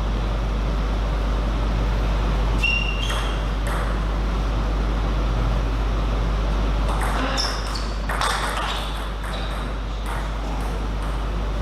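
Celluloid table tennis ball clicking off bats and table: a few hits about three seconds in, then a quicker run of hits in the second half. A steady low hum runs underneath.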